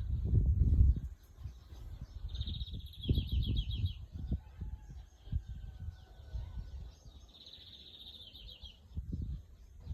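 A bird singing a short trilled phrase three times, roughly every five seconds, over low rumbling thumps that are loudest in the first second, with a faint high insect-like buzz coming and going.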